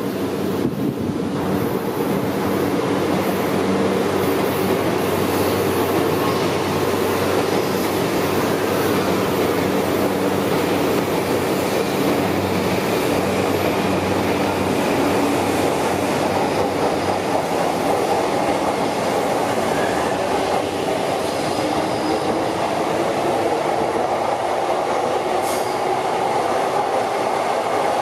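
Electric commuter train running alongside the station platform, its wheels clattering on the rails over a steady hum that lasts throughout.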